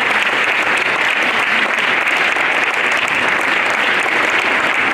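Audience of schoolchildren and adults applauding, steady dense clapping.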